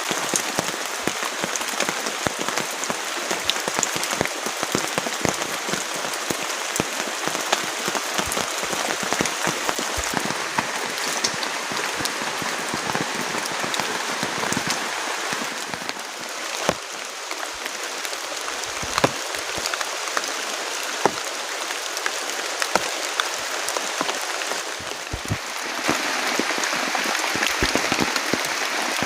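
Heavy rain pattering steadily on a flysheet, with sharp individual drops striking close by; it grows a little louder near the end.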